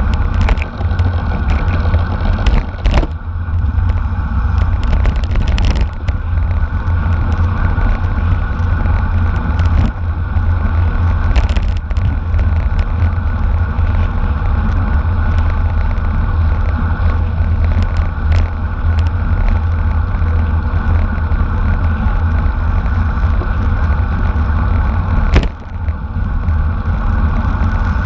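Steady wind rumble and rolling road noise of a road bicycle ridden at race speed, with a few sharp knocks along the way.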